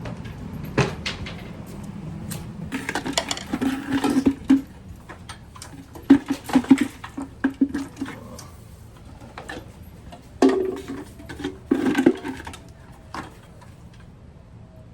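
Clattering and knocking of objects being handled and set down, in several bursts with pauses between.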